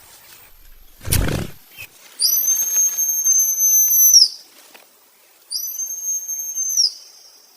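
Two long, high, steady whistle-like tones, each sliding up at the start and down at the end, the first about two seconds long and the second about a second and a half; a short low rush comes about a second in, before them.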